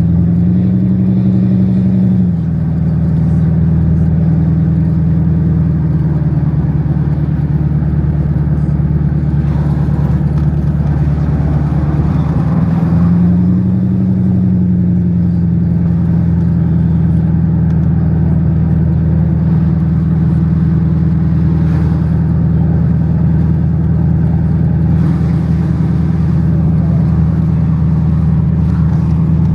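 Mercedes-Benz 560 SEC's M117 V8 engine running steadily while driving. Its pitch drops about two seconds in, rises briefly around the middle and settles, then climbs again at the end.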